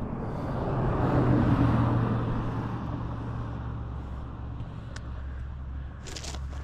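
A car passing on a mountain road: its engine and tyre noise swell to a peak about a second and a half in, then fade away.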